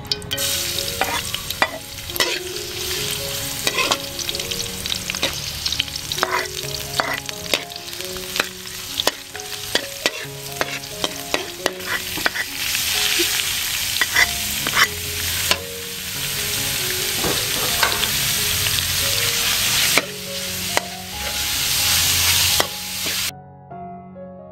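Food sizzling in a hot pan as it is stir-fried, with a spatula clicking and scraping against the pan many times. The frying cuts off suddenly near the end.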